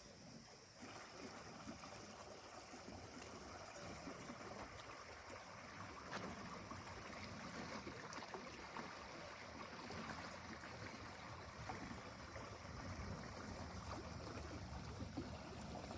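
Faint, steady rush of flowing river water, setting in about a second in, with a few light ticks over it.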